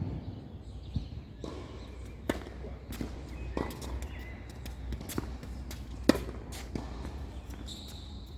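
Tennis ball being struck by rackets and bouncing on the court during a rally: a string of sharp pops about a second apart, the loudest around six seconds in, over a steady low rumble.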